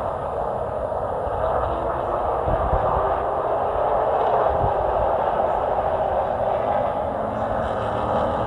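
A Chevy short-track race truck's engine running at racing speed, heard from inside the cab as a steady, dense drone.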